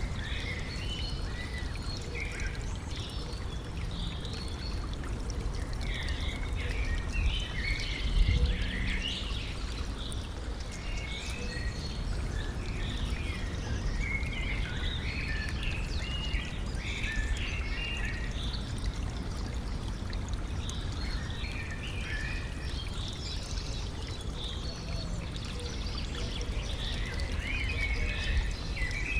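A stream trickling and pouring steadily, with birds singing many short chirping calls over it. The water swells briefly about eight seconds in.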